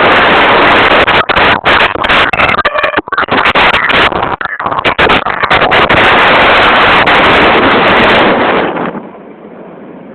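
Heavy wind buffeting on a phone's microphone while riding, loud and distorted, with crackling dropouts in the middle. It falls away sharply, much quieter, about nine seconds in.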